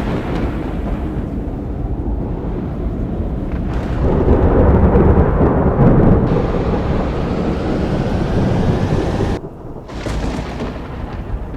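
Thunder rumbling in a long deep roll, swelling about four seconds in, with a sudden break near the end.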